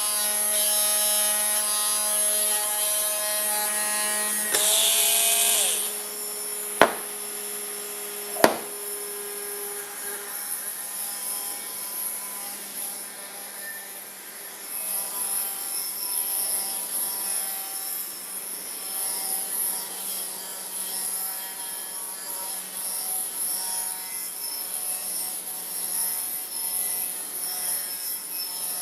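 Hand-spun gyroscope whirring with a twisting, rubbing noise. About four and a half seconds in the whine changes pitch, two sharp clicks follow a second and a half apart, and then it runs on as a steadier scraping hum.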